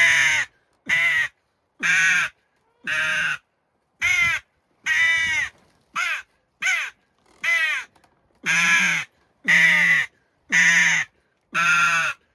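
Mouth-blown crow call, made for hooded crow, sounding a series of about a dozen harsh caws, roughly one a second, each rising then falling in pitch. The pitch and length change from caw to caw as the angle of the call and the force of the blowing are varied.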